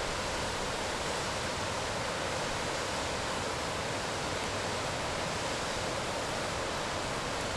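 A mountain waterfall rushing steadily, an even roar of falling water.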